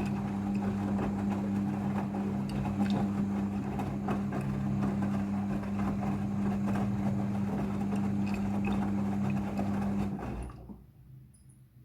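Midea front-loading washing machine running with a steady electric hum and water rushing, most likely its pump or water valve at work. The hum cuts off about ten seconds in and leaves a much quieter machine.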